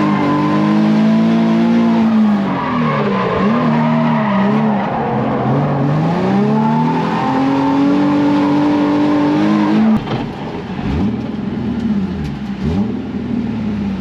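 Nissan 350Z drift car's engine at high revs through a drift, its pitch swinging up and down as the throttle is worked, with tyre squeal under it. About ten seconds in, the engine suddenly drops to lower revs and gets quieter, with a few short revs after.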